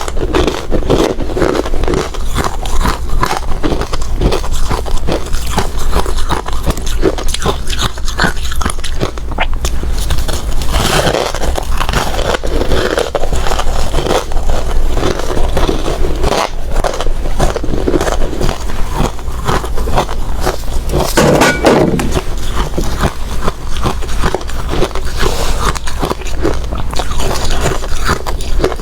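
Close-miked crunching of hard ice being bitten and chewed, a dense run of sharp cracks and crackles with no pause.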